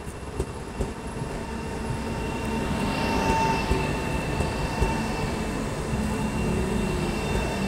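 PKP Intercity Pendolino electric train passing alongside the platform: wheel-on-rail rumble and noise growing louder as the train draws level, with a steady high whine over it.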